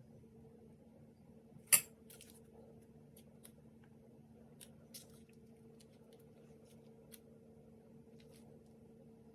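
Kitchen utensils handled against dishes: one sharp clink about two seconds in, then a few light scattered taps and ticks, over a faint steady hum.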